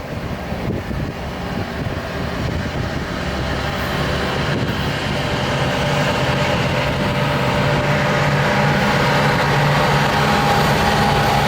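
Diesel locomotive SSR102 approaching at the head of a loaded grain train, its engine note growing steadily louder, with a steady whine coming in near the end.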